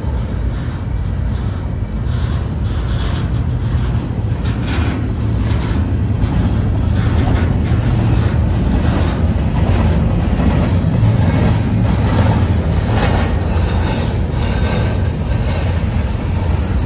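Norfolk Southern freight train cars, centerbeam flatcars and covered hoppers, rolling past close by. Steel wheels make a steady loud rumble on the rails, with repeated clicking and clanking over the track.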